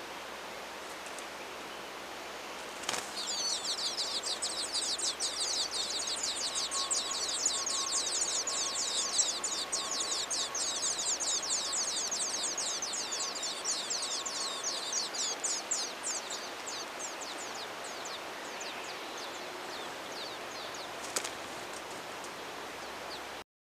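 Hermit thrush nestlings begging: a rapid, dense chorus of high, thin cheeping that starts suddenly about three seconds in and tails off over the following dozen seconds, over a steady hiss.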